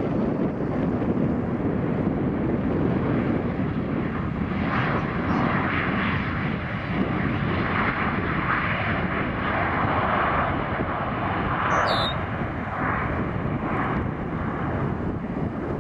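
A jet airliner's engines running as it passes, a steady rumble with a rushing hiss that builds about four seconds in, over wind buffeting the microphone. A short high chirp cuts in about twelve seconds in.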